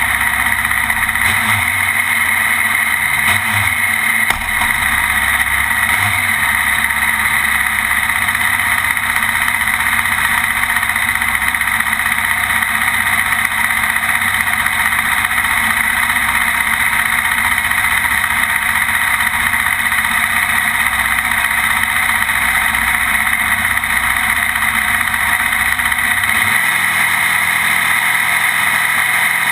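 Drag-racing motorcycle engine noise, loud and steady, with a strong high drone. The low rumble changes about four seconds in and drops away near the end.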